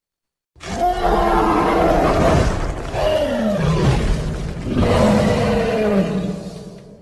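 Creature roar sound effect: a long, growling monster roar starting about half a second in, its pitch sliding down in places over a rough low rumble, fading out near the end.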